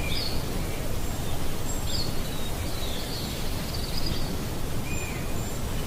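Steady outdoor background noise with a few short, faint bird chirps scattered through it; no llama call stands out.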